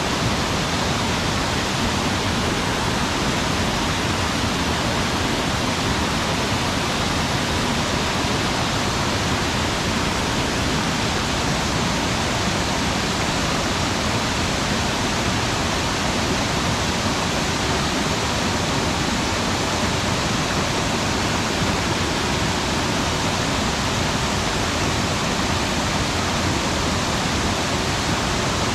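Steady rush of mountain-stream water pouring and tumbling, an even, unbroken noise.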